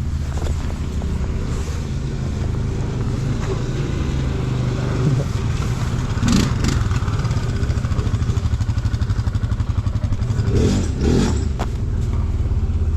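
ATV engine running at steady low revs, with a couple of short knocks or clatters about halfway through and again near the end.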